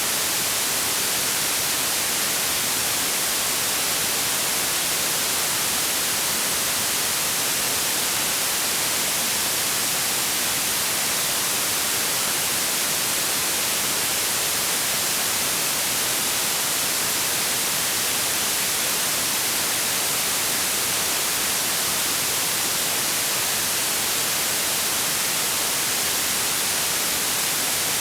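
Steady synthetic white noise: an even, unchanging hiss across the whole range.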